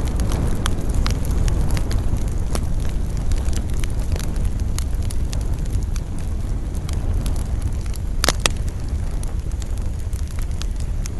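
Campfire burning, with scattered sharp crackles and pops over a steady low rumble of flames and wind; a louder double pop about eight seconds in.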